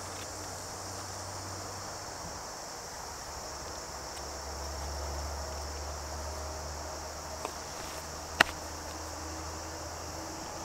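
Steady high-pitched insect chorus in the background, with one sharp click about eight seconds in.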